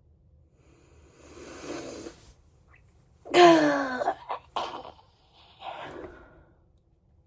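A woman's wordless vocal sounds: a breathy exhale, then a loud voiced sigh or groan falling in pitch about three and a half seconds in, followed by a softer exhale.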